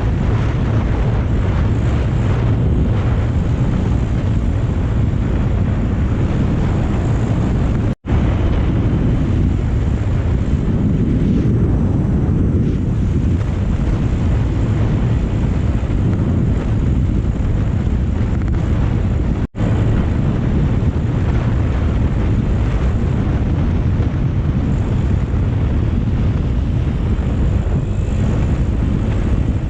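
Heavy wind rumble on the microphone of a camera on a moving motorcycle, with the motorcycle running underneath it. The sound cuts out for an instant twice.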